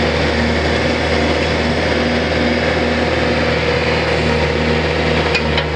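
Four-cylinder diesel engine of a 1999 Bobcat X331 mini excavator running steadily, with a few light clicks near the end.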